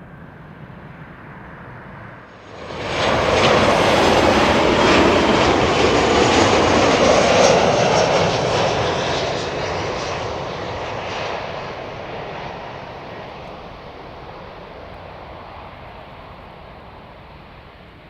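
Jet airliner's engines passing close by. The noise comes in suddenly about two and a half seconds in, stays loud for several seconds with a thin high whine on top, then slowly fades away.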